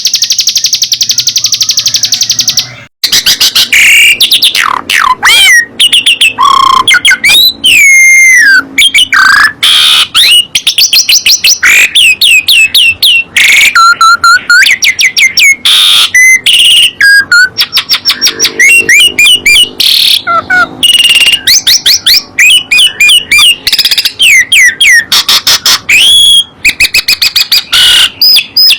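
Songbird singing loudly: a fast, even high trill for about three seconds, then after a brief break a long run of varied whistled phrases with quick rising and falling notes.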